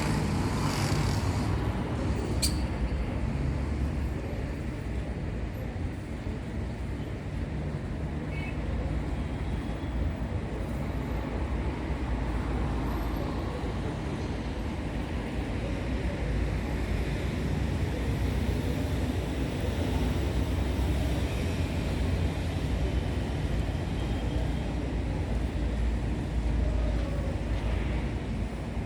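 Steady low rumble of background noise, like distant traffic, with a single sharp click about two and a half seconds in.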